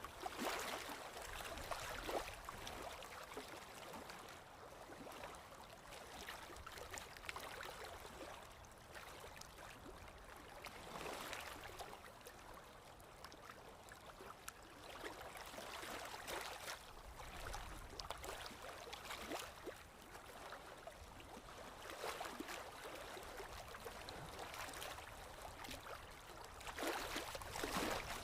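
Paintbrush working acrylic paint onto canvas: soft, scratchy brushing that swells and fades every few seconds.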